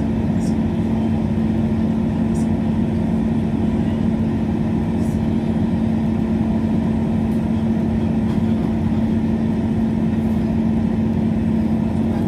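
Diesel train engine and running noise heard inside the carriage: a steady drone with a constant low hum that holds level throughout, with a few faint light clicks.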